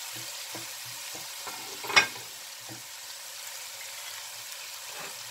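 A sofrito of onion, garlic, pepper and tomato sizzling gently in oil in a pan, with light stirring taps and one sharp click about two seconds in.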